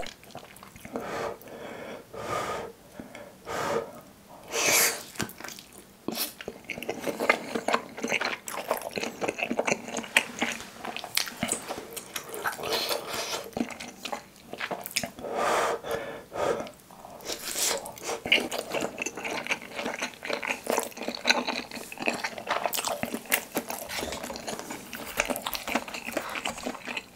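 Close-miked chewing of soft Korean fish cake (eomuk) pulled from skewers: a steady run of wet mouth clicks, tongue sounds and smacks, with a few louder breathy bursts.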